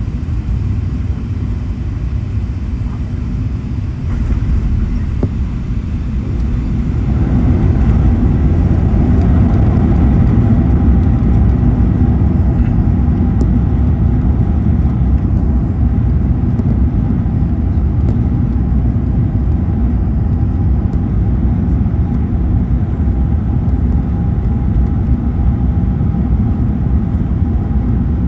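Airbus A380 cabin noise during landing: a steady low rumble of engines and airflow that grows louder about four seconds in and again about seven seconds in, then holds steady with a faint steady tone over it.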